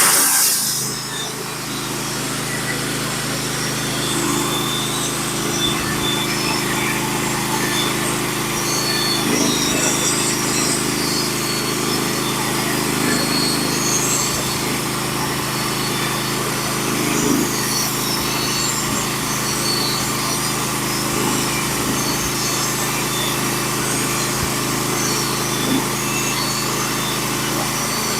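Norwood HD36v2 portable bandsaw mill running steadily, its gas engine driving the band blade through a pitch pine log as a board is sawn.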